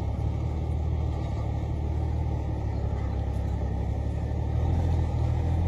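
Straight-piped Volvo FH 480 truck's 13-litre six-cylinder diesel running steadily through its open exhaust, with a deep, even drone that rises slightly near the end.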